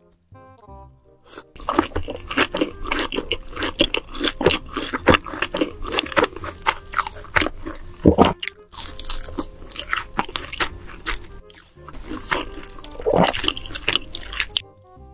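Close-miked crunching and chewing of sauced Korean fried chicken, a rapid run of crisp crackles with brief pauses, over faint background music.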